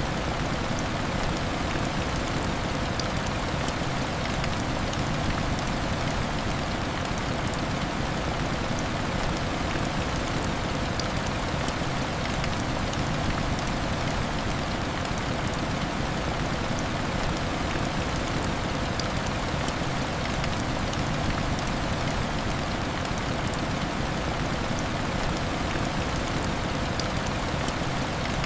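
Heavy rain falling steadily against window glass, an even hiss with scattered fine ticks of drops.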